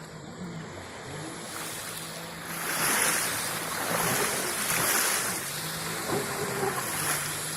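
Jet ski engine running, its drone wavering in pitch. A louder rushing noise of wind and water comes in about two and a half seconds in and eases off near the end.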